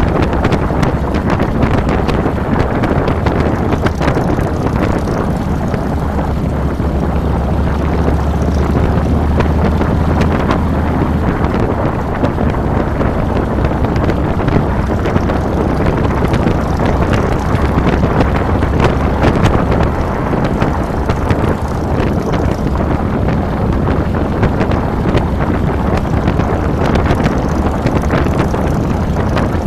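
Harley-Davidson Fat Boy's Twin Cam 96 V-twin engine running while under way, with heavy wind noise buffeting the handlebar-mounted camera's microphone. The engine's low rumble grows stronger for a few seconds about a fifth of the way in, then settles back.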